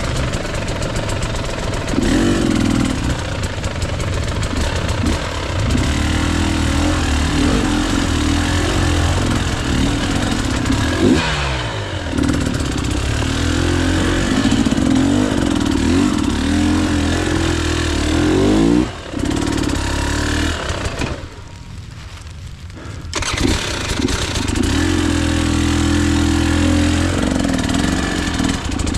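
KTM EXC 300 two-stroke enduro engine being ridden, revving up and down over and over. Near three quarters of the way through it drops off sharply to a quieter lull of about two seconds, then picks up again.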